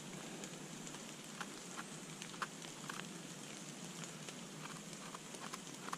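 Steady rain pattering on a forest floor of fallen leaves, with scattered drops ticking now and then.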